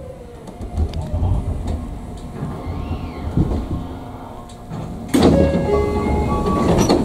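Tokyu 9000-series commuter train rolling slowly to a stop at a station, with low rumble and a few knocks. About five seconds in, a loud hiss starts with several steady tones over it as the sliding doors are worked.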